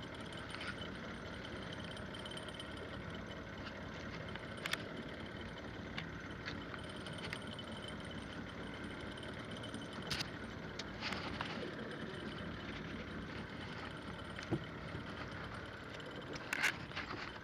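Boat engine running steadily, with a few sharp knocks now and then.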